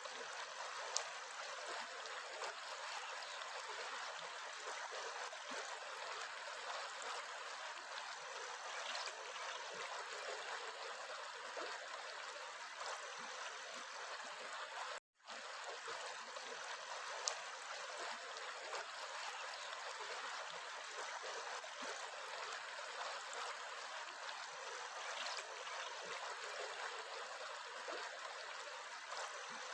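Steady rushing and trickling of a flowing stream. It drops out for an instant about halfway through, then carries on.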